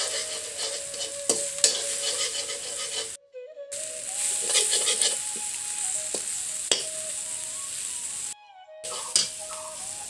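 Egg frying with onion and tomato in a karahi, a steady sizzle with a metal spatula scraping and tapping the pan as it is stirred. The sound drops out briefly twice.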